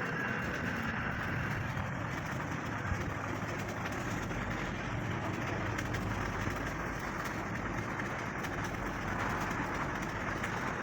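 Steady background traffic and street noise, without distinct impacts or rhythm.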